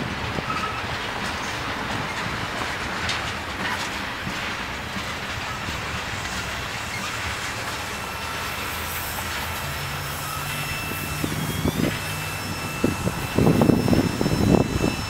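Loaded tank cars of a long freight train rolling past, steel wheels clacking and rumbling over the rails as the last cars go by. About 11 s in, a thin high wheel squeal sets in and holds, and near the end a louder, gusty low rumble rises.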